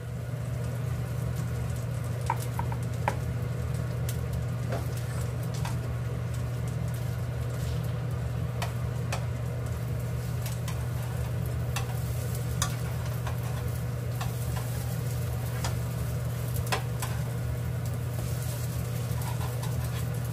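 Egg-dipped bread slices frying in hot fat in a nonstick pan: a steady sizzle with scattered crackles and sharp clicks, some from metal tongs against the pan as the slices are turned, over a steady low hum.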